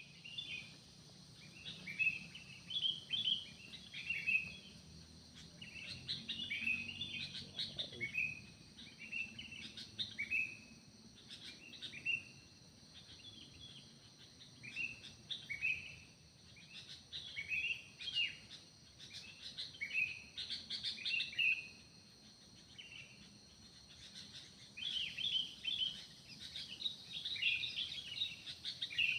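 Forest birds calling, a busy run of short, sharp chirps that fall in pitch, coming in clusters every second or two, over a steady high-pitched insect buzz.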